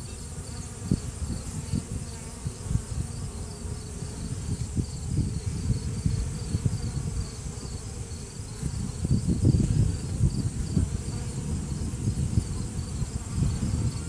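Honeybees buzzing in a dense, uneven hum around a frame held up out of an open hive, with low rumbling swells from handling and the bees close to the phone's microphone.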